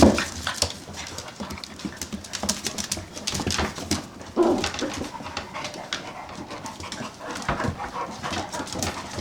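Labrador retriever puppies playing, with a scatter of quick clicks and scuffles and a short whimpering cry about four and a half seconds in.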